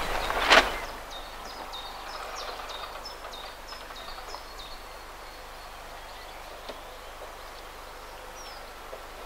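A brief thump about half a second in, then a small songbird singing a quick run of high, repeated chirping notes for a few seconds before a faint steady outdoor background.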